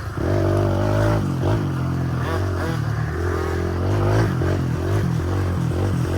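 Small dirt bike engines riding laps, their pitch rising and falling again and again with the throttle.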